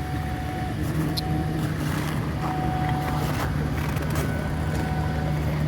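1995 Lincoln Town Car's 4.6-litre V8 idling steadily while still cold, a couple of minutes after a cold start at about −25 °F.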